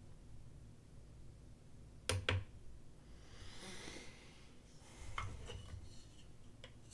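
Small hard clicks and taps, with a brief soft rubbing or sliding sound in between, from a knife and a BESS edge sharpness tester being handled and used. There are two sharp clicks about two seconds in and a few lighter ones in the last two seconds.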